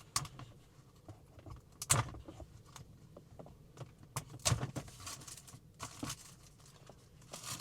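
Sealed packaging of a small electronic adapter being opened and handled by hand: scattered clicks, taps and rustles, a few louder ones about two, four and a half and six seconds in.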